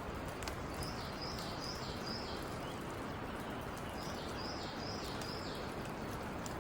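A bird singing two short phrases, each of four quick repeated high notes, over a steady background hiss of outdoor noise.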